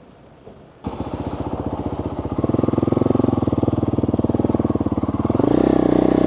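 Dirt bike engine running with a fast, even pulse. It comes in abruptly about a second in and gets louder twice as it picks up speed.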